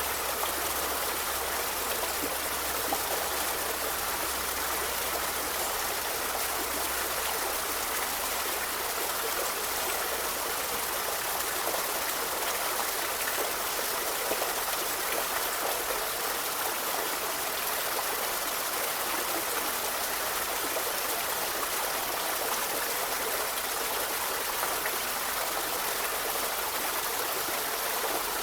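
A forest river flowing: a steady, unbroken rush of running water.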